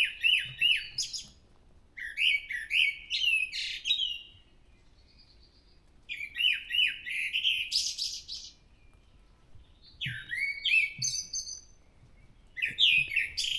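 A thrush singing in short phrases. Each phrase is a few quickly repeated notes, and the phrases are separated by pauses of a second or two.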